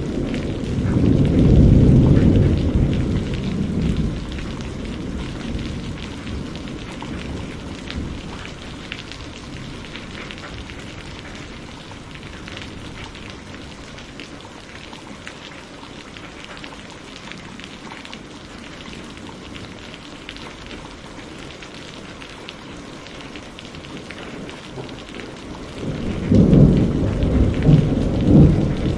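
Steady heavy rain, with rolling thunder rumbling during the first few seconds, fading out, then building again near the end.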